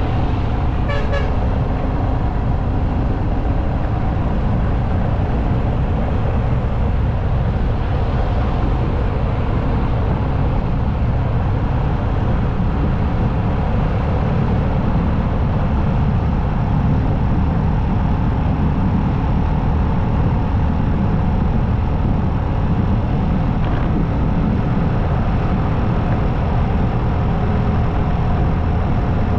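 Motorcycle riding at road speed: steady rush of wind, engine and tyre noise, heaviest in the low end. A short horn-like toot comes about a second in.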